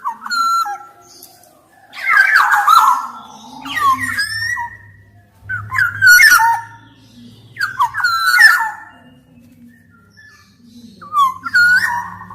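Black-naped oriole (kepodang emas) singing loud, fluting whistled phrases with swooping pitch, about six phrases roughly two seconds apart. A faint low hum runs under the later phrases.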